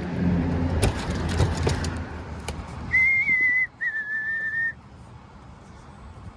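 A person whistling two notes near the middle, the first a little higher and wavering, the second lower and held steady. It follows a few sharp clicks over a low rumble of handling and wind.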